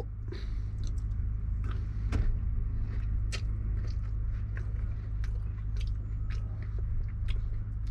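Idling lorry engine heard from inside the cab as a steady low rumble, with scattered small clicks and taps over it.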